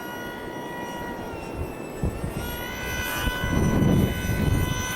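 Electric motor of a Dynam Hawk Sky RC plane whining in flight, its pitch rising about two and a half seconds in, with low rumbling wind buffeting the microphone, loudest near the end.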